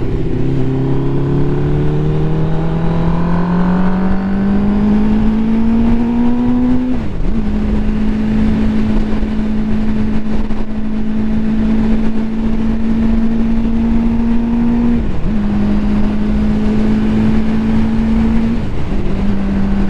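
Ducati motorcycle engine accelerating under load. The note climbs steadily for about seven seconds, then drops briefly at each upshift, about 7, 15 and 19 seconds in, and settles into a steady cruise between shifts.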